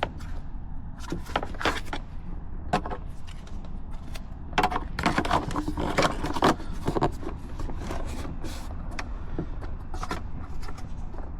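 Irregular small clicks, taps and light rattles of plastic trim parts and mounting clips being handled and fitted around an instrument cluster, over a steady low hum.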